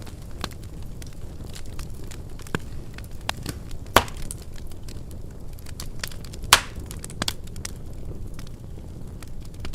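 Wood fire crackling in a fireplace: scattered sharp crackles over a low steady rumble of the flames, with two louder pops about four and six and a half seconds in.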